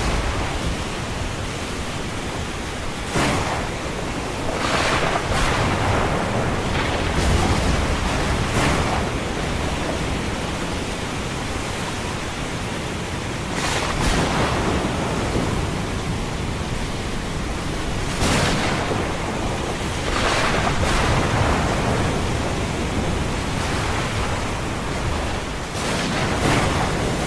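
Ocean surf with rain: a steady wash of water noise, with waves breaking in surges every few seconds and a low rumble of thunder underneath.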